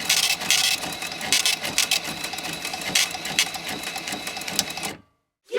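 Rapid mechanical clicking and clatter over a faint steady whine, which cuts off abruptly about five seconds in.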